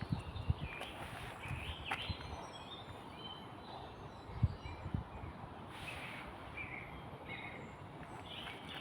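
Small birds chirping and calling, with a few soft low thumps of footsteps in the first second and again at about four and a half seconds, over a faint steady outdoor hiss.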